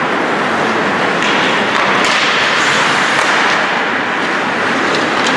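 Ice hockey rink sound during play: a steady hiss of skates on ice and arena noise, with a few sharp clicks of sticks and puck.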